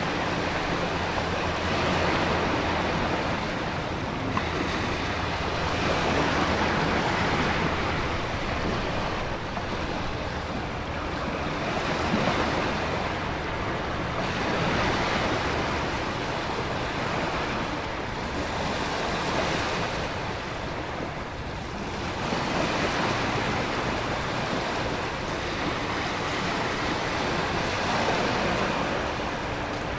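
Storm surf: heavy ocean waves swelling and breaking about every four seconds under a steady hiss of wind and rain.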